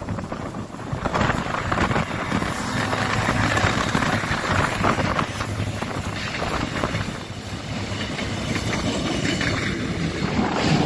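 A Korail diesel locomotive and its Mugunghwa-ho passenger coaches pass close by, the engine running and the wheels rolling over the rails, mixed with strong wind blowing on the microphone.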